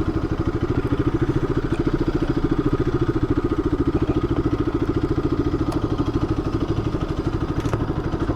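Motorcycle engine idling steadily, with a quick, even beat.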